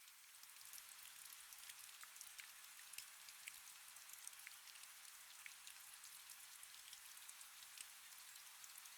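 Faint, steady rain, with many small drops ticking through a soft high hiss.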